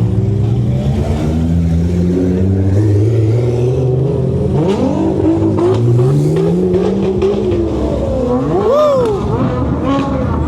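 Car engines idling, with one revved in a rising climb about halfway through and a quick rev blip that rises and drops near the end.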